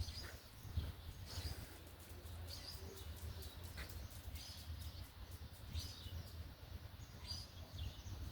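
Small birds chirping: short high chirps about once a second, over a low steady rumble.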